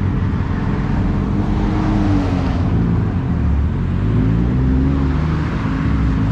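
Sports car engines rumbling at low speed as cars roll through a car meet, with the engine note rising and falling a few times as they are eased along.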